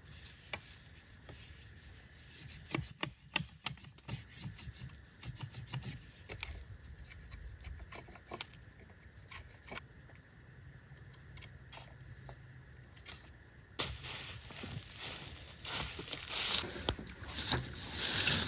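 Hatchet blade scraping and shaving along a wooden hiking stick in short, irregular strokes, smoothing out its rough spots.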